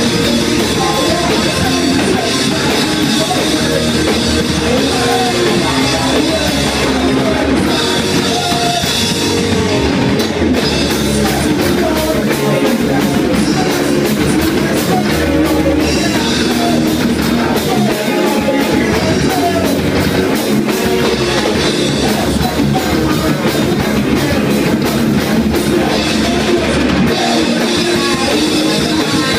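Loud rock song played by a band with drum kit and guitar, continuous throughout.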